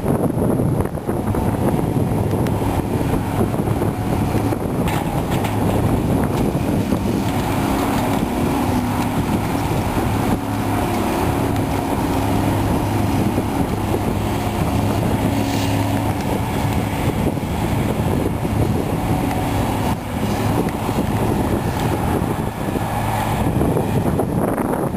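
Cat 345B hydraulic excavator's diesel engine running steadily under load, its drone shifting in pitch as the machine works while loading demolition debris.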